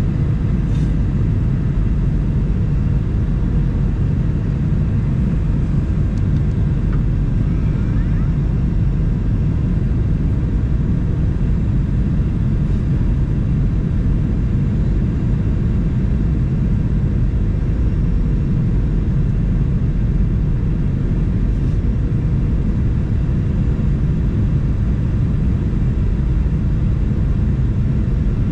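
Boeing 737-900 cabin noise at a window seat: a steady low rumble of the jet engines and the airframe, unchanging throughout.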